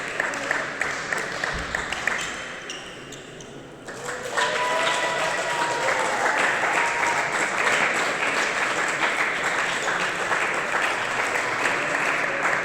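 Spectators applauding: clapping that dips briefly, then swells and runs on dense and steady from about four seconds in.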